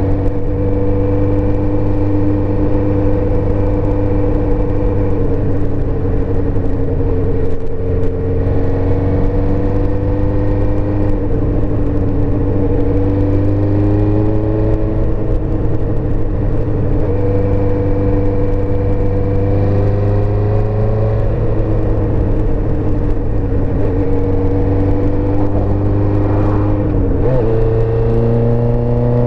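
1984 Suzuki GSX-R400's inline-four engine running under way. Its note holds fairly steady, rising and falling a little with the throttle, then dips sharply and climbs back near the end.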